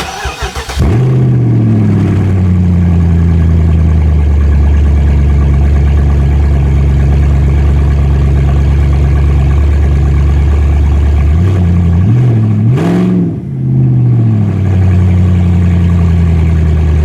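BMW 750i V8 engine with its exhaust system removed, running unmuffled and very loud. It cranks and catches at the start, settles to a lower idle over the first few seconds, is blipped once with a quick rev about twelve seconds in, then idles steadily again.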